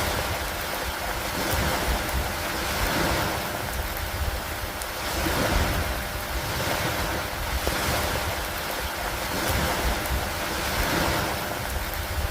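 Steady rain falling on a wooden dock and lake water: a full, even hiss that swells and eases every couple of seconds, with scattered faint drop ticks.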